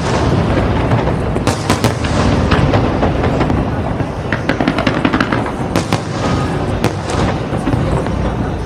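Fireworks display: many quick bangs and crackles of bursting shells, one after another over a continuous low rumble.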